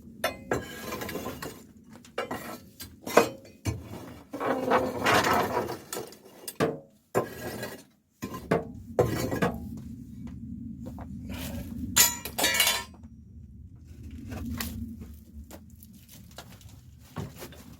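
Ash being scraped and raked out of a wood-burning firebox, with irregular scraping strokes and the clinks and knocks of burnt scrap metal, iron lumps and wire, among the ash.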